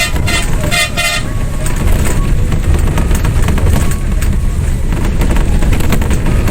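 A vehicle horn honks a few short times in about the first second, over a loud, steady low rumble.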